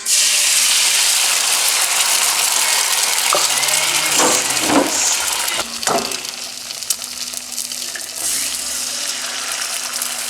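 Food sizzling in a hot frying pan, a steady hiss that starts suddenly, with a few brief scrapes or stirs in the middle.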